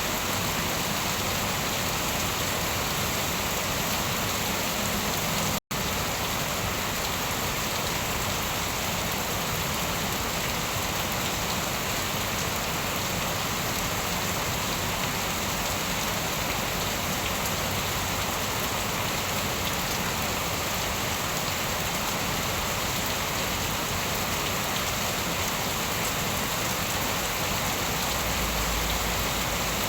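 Steady heavy rainfall, an even unbroken hiss of rain. The sound cuts out completely for an instant about six seconds in.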